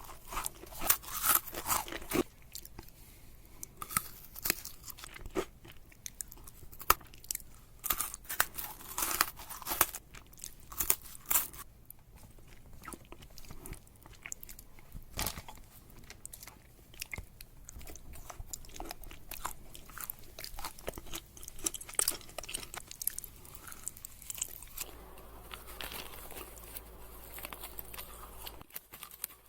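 Chewing chocolate candy with crisp crunches and crackles, busiest in the first half and softening into quieter chewing near the end.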